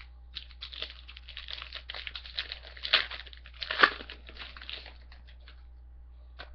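Trading card pack wrapper being torn open and crinkled, a dense crackling from about half a second in that peaks twice near the middle and stops after about five seconds.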